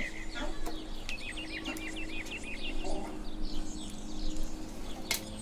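A small bird chirping in a quick series of short, repeated chirps for about two seconds, starting about a second in. Under it runs the low, steady hum of a cordless drill-driver backing out bumper screws, with a sharp click near the end.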